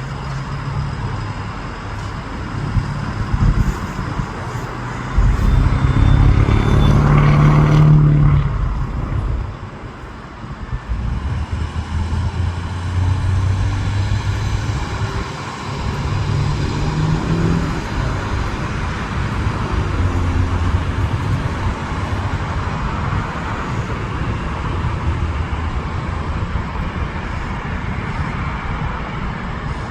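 Jet engine noise mixed with road traffic rumble, swelling loudest for about three seconds from five seconds in as something passes close with a falling pitch, then settling back to a steady rumble.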